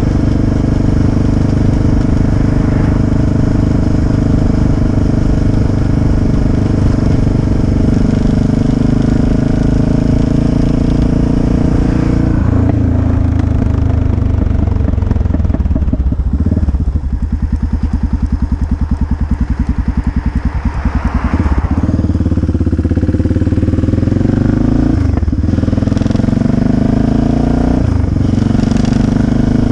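Motorcycle engine running at steady speed, then the throttle closes about twelve seconds in and the revs fall to a slow, evenly pulsing tickover for several seconds. It then pulls away again, with two brief breaks in the engine note near the end that fit gear changes.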